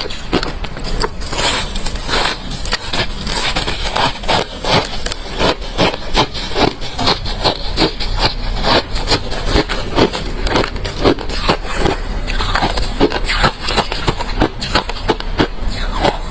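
Close-miked chewing of hard refrozen crushed ice: a dense, continuous run of sharp crunches and cracks, several a second.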